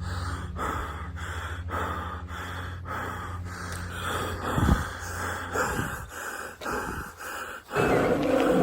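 Heavy rhythmic breathing, about two breaths a second, over a low steady hum.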